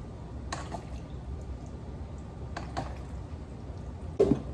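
A spoon serving Alfredo pasta onto a plate: a few light clicks, then a louder clatter near the end, over a low steady hum.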